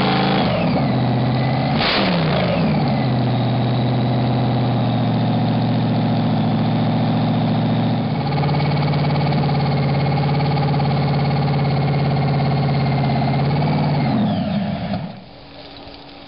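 Newly built supercharged Hemi V8 running on its first firing: a throttle blip at the start, then a steady fast idle with a high whine above it, until it is shut off and winds down near the end.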